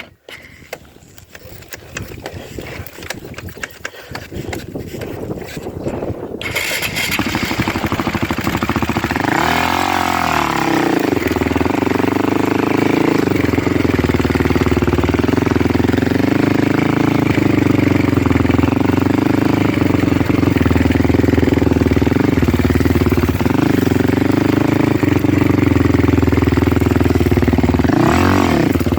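A motor vehicle's engine running, growing louder over the first several seconds, then steady, with a brief rise and fall in pitch about ten seconds in and again near the end.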